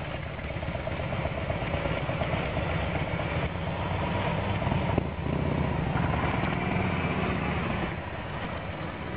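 A motor vehicle's engine running steadily at idle with a low, pulsing rumble, and one sharp click about five seconds in.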